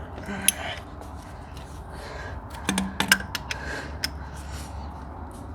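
Metal hand tools and engine parts clinking and clicking during rocker-arm removal on a diesel engine: scattered sharp metallic clicks, a cluster of them about three seconds in, over a steady low hum.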